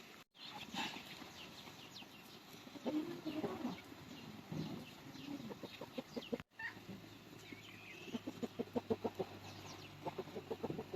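Chickens clucking, with a quick run of short clucks about two-thirds of the way in.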